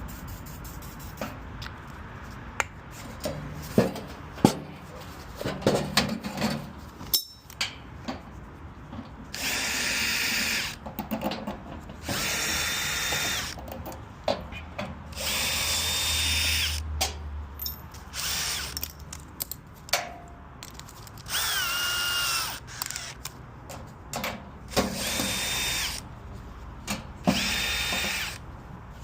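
Power drill running in about six short bursts of a second or two each, with a steady whine that drops in pitch once as it slows. Between the bursts come light metal clicks and knocks.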